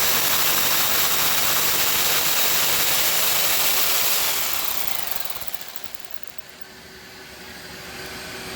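Jigsaw with a metal-cutting blade cutting through a fiberglass panel, then switched off about four seconds in, its motor winding down in pitch. A fainter steady hum remains afterwards.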